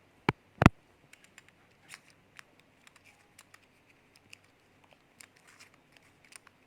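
Plastic contact lens washer being turned round and round: two sharp clicks near the start, then a run of faint, irregular plastic clicks and ticks as the lens case is spun.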